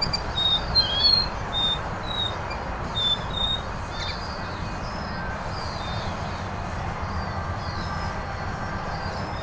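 A small bird calling in short, high chirps, many in the first few seconds and scattered after, over a steady rushing background noise.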